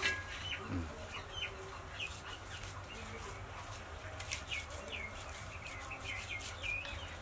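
Birds chirping in short, high calls, about one or two a second, over a faint steady low hum.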